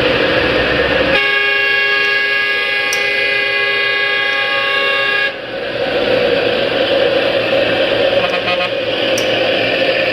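A vehicle horn sounds one long, steady blast of several tones together. It starts about a second in and cuts off suddenly some four seconds later, over the steady noise of road traffic.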